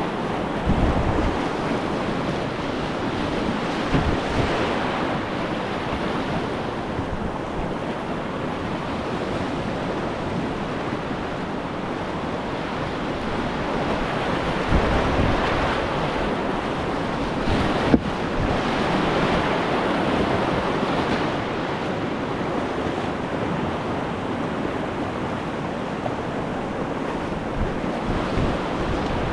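Whitewater of the Lower Hood River rushing around a kayak, a steady wash of moving water that swells and eases, with one sharp knock about eighteen seconds in.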